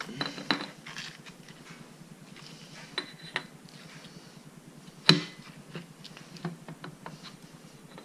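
Metal engine parts clinking and knocking as they are handled and fitted, with a few light clicks and one sharper clank about five seconds in.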